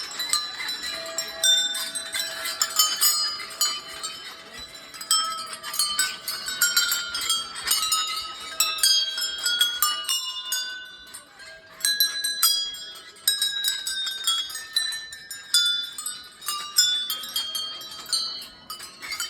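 Many small metal bells jingling and ringing irregularly, with strikes overlapping at many different pitches and a steadier low ringing tone beneath.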